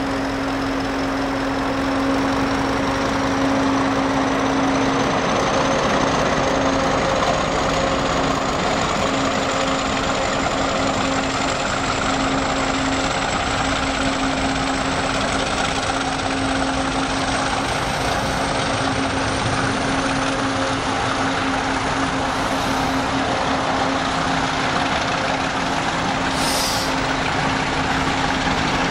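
Train running at a station: a steady mechanical hum with a thin high whine that slowly climbs in pitch, and a few short hisses in the second half.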